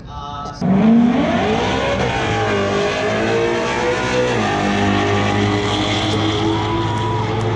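Drag-racing cars launching hard at full throttle, the engine noise starting suddenly under a second in. The pitch climbs, drops back twice as the cars shift gears, then keeps pulling down the strip.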